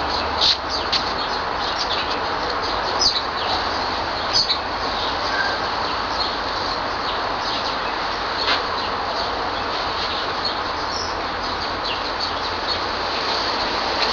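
Short, high bird chirps scattered over a steady background hiss.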